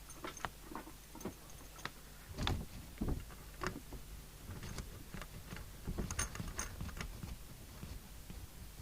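Scattered clicks and knocks, with dull thumps about two and a half and three seconds in and a cluster of clicks around six seconds in.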